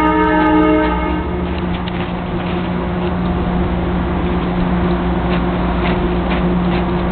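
Steady low electric hum of a stationary electric train. A multi-tone train horn chord cuts off about a second in. A few faint scrapes of a shovel working snow beside the track come after it.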